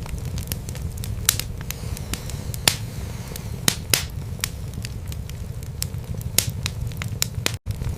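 Wood fire burning in a fireplace: irregular sharp crackles and pops over a steady low rumble of the flames. A split-second dropout near the end.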